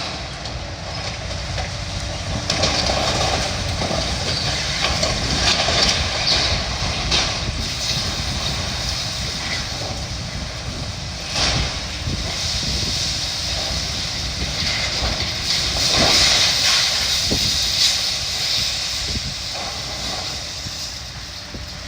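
Building demolition: a heavy excavator running while it tears into the structure, with crunching and scraping of debris and several sharp knocks.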